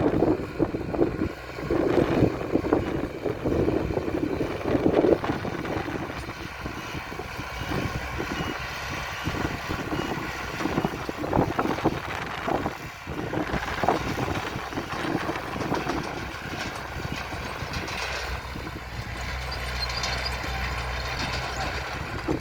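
Diesel engines of heavy earthmoving machinery running, louder for the first few seconds and then a steadier rumble, with a low steady engine hum near the end.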